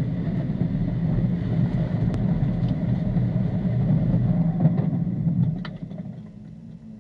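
Datsun 240Z race car heard from inside the cabin, its engine running at low revs as the car slows. About five and a half seconds in the engine is switched off, leaving quieter rolling noise with a few light clicks.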